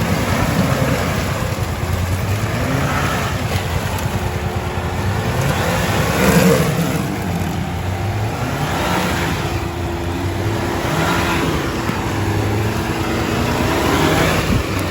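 Off-road 4x4 engine revving repeatedly, its pitch rising and falling several times, as a vehicle works along a muddy trail.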